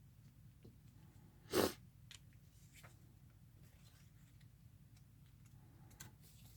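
Faint handling noises of paper crafting: small scattered clicks, and one short, louder rustle about one and a half seconds in.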